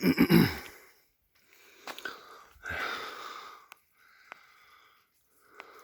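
A person breathing hard: a loud, voiced exhale at the start, then a series of quieter breathy puffs about a second apart.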